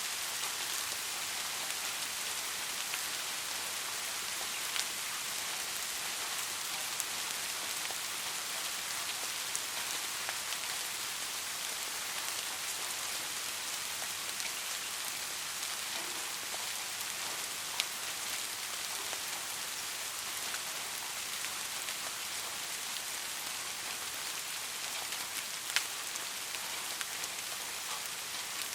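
Steady rain falling: an even hiss with a few single sharper drop hits, the loudest near the end.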